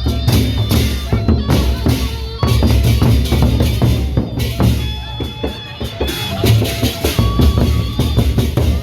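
Loud procession music led by pounding drums, with a reed or melodic instrument holding high notes over the beat.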